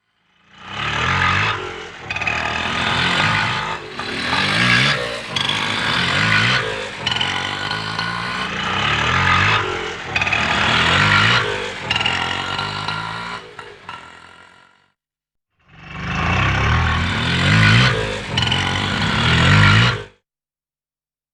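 Auto rickshaw's small engine revving up and down over and over, in one long run of about fourteen seconds, then after a short break a second run of about four seconds that cuts off suddenly.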